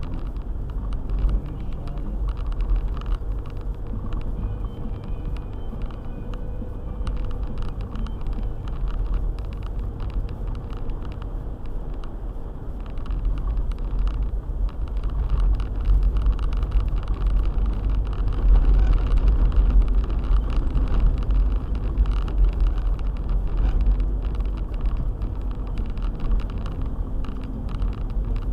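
Four-wheel-drive car driving on a snowy road: a steady low rumble of engine and tyres, with frequent small knocks and rattles. It grows louder for a few seconds about two-thirds of the way through.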